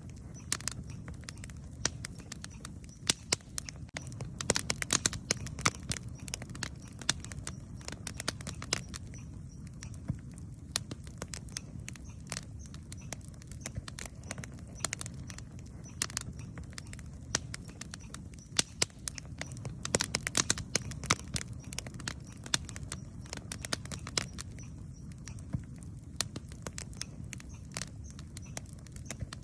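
Wood campfire burning: frequent sharp crackles and pops over a steady low rumble of the flames, with busier bursts of crackling a few seconds in and again about two-thirds of the way through.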